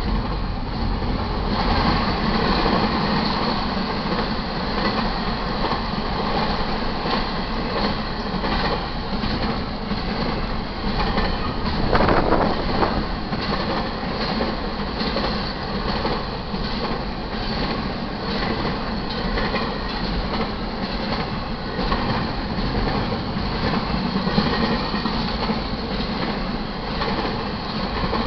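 Double-stack intermodal freight cars rolling past at speed: a steady rumble and clatter of steel wheels on rail, with a louder swell about twelve seconds in.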